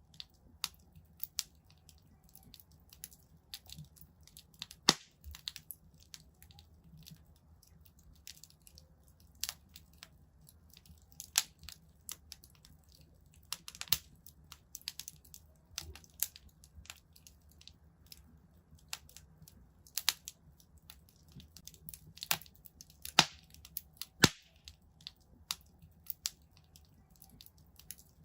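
Wood fire in a fireplace crackling: irregular sharp pops and snaps, a few of them louder, over a low steady rumble.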